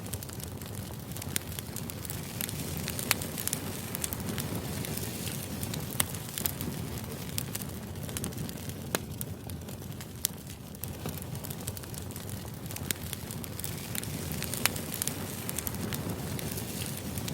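Crackling fire used as background white noise: a steady low rush with irregular sharp pops and snaps scattered throughout.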